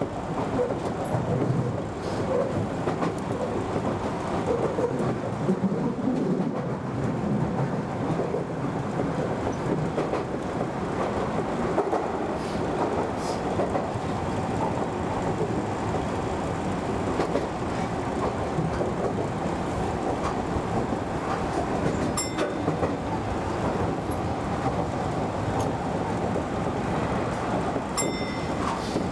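Commuter train running at speed, heard from inside the driver's cab: a steady rumble of wheels on rail, with a few sharp clicks about two-thirds of the way in and near the end.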